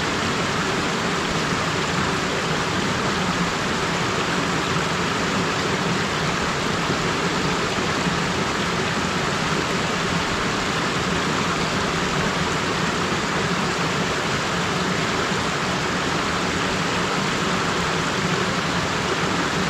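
Small mountain stream flowing, a steady, unbroken rush of water.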